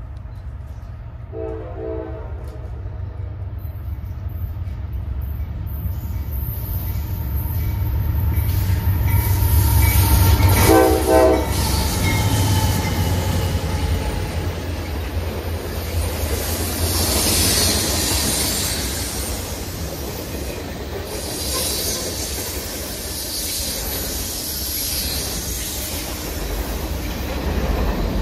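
A diesel train approaching and passing. The locomotive horn sounds two short blasts about nine seconds apart while the low engine rumble builds. The train then rolls by with steady high-pitched wheel-on-rail noise.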